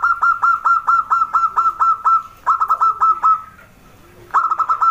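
Zebra dove (perkutut) cooing: fast runs of short, clipped notes repeated about seven a second, with a pause of under a second before another run starts near the end.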